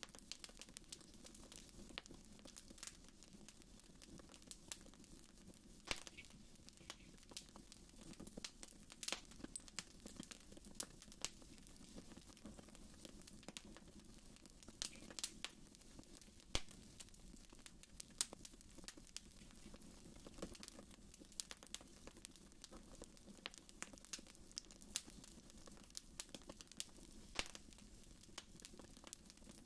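Wood fire in a fireplace crackling: a steady run of small irregular pops and snaps, a few of them sharper and louder, over a faint low rush.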